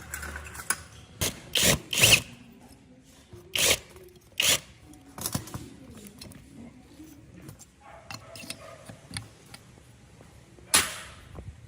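Hand tools and metal parts knocking and clanking during repair work: irregular sharp knocks, loudest in a cluster about one to two seconds in and again near the end.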